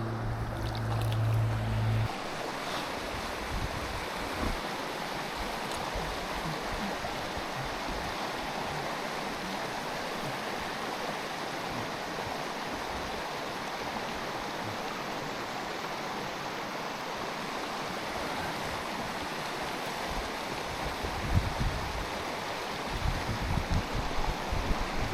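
Mountain stream water rushing steadily. A low steady hum sits over it for the first two seconds and cuts off suddenly, and low irregular bumps come in near the end.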